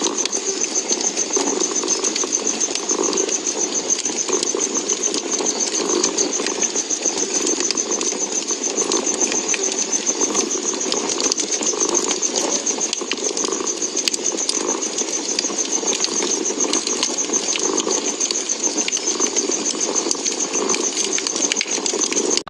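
Domestic cat purring steadily, the purr swelling and fading about once a second with its breaths, over a wood fire's scattered crackles.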